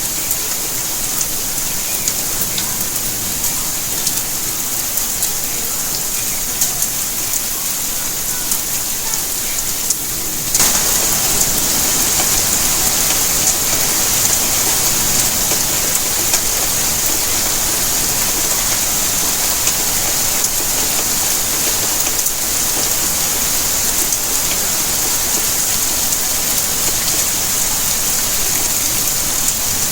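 Steady rainfall, a dense hiss of rain with the fine patter of individual drops. About ten seconds in it abruptly becomes louder and fuller, then stays steady.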